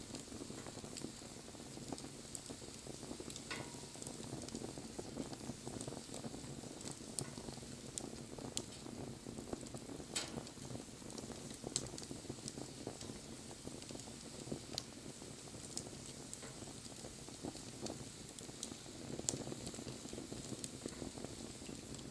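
Wood fire burning: a steady low rush of flame with frequent small crackles and pops from the burning wood, a few of them sharper and louder than the rest.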